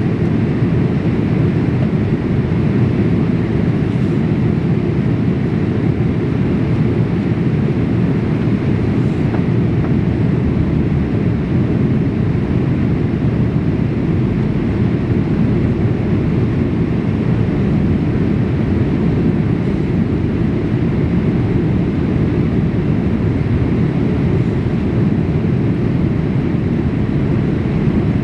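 Steady cabin noise of a Boeing 787-8 airliner in flight, heard from inside the cabin: an even, dull roar of airflow and engines, mostly low-pitched, with no change in level.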